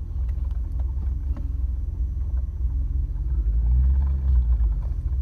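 A big truck's engine and road rumble heard from inside the cab while driving slowly, a steady low rumble with a few light clicks.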